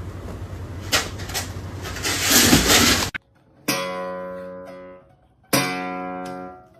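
Acoustic guitar strumming: two single chords, each left ringing out and fading. Before them, a rushing noise with a steady low hum and a few sharp knocks, swelling and then cutting off abruptly about three seconds in.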